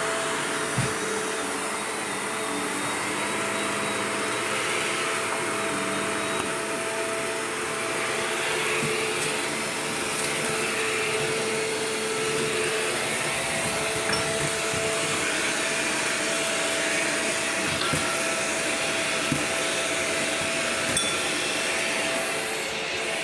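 Shark Rotator upright vacuum running steadily with its motor whine, over the brushroll on carpet and a few small ticks of debris. At the very end the motor cuts out and winds down, the cord having pulled from the outlet.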